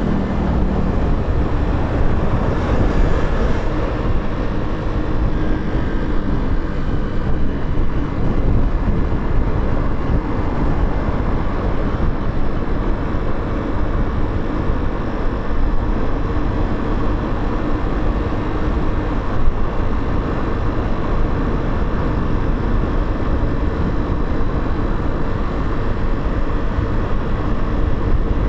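Motorcycle engine running steadily under wind rush, heard from the moving bike.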